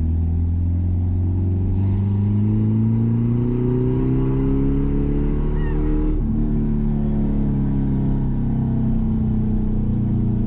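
Mazda B-series pickup's fuel-injected engine accelerating under load. Its pitch rises for a few seconds, drops sharply at a gear change about six seconds in, then climbs again in the next gear.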